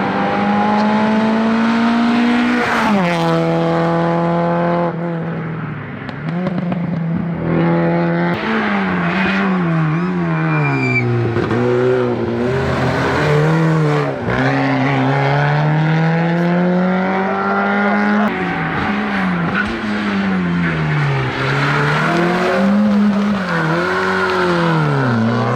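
Small four-cylinder Peugeot hatchback race cars driven flat out up a hillclimb, one after another. Each engine revs hard, its pitch climbing and then dropping sharply at every gear change, with quick rises and falls where the driver lifts and blips the throttle for corners.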